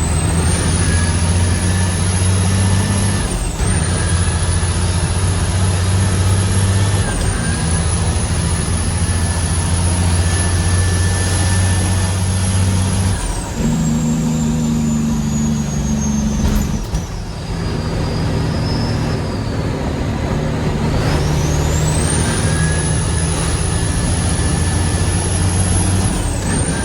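Heavy diesel truck engine pulling under load, with a high turbo whine that climbs and dips briefly at each gear shift. Midway the whine falls away as the engine note changes, then it climbs again near the end.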